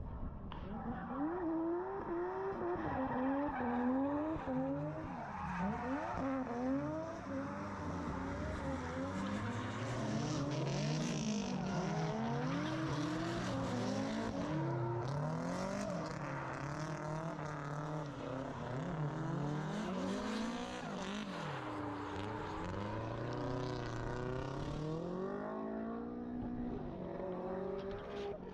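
Drift car engine revving up and down again and again as the throttle is worked through a drift, with tyres squealing under it for most of the run. The squeal fades out near the end.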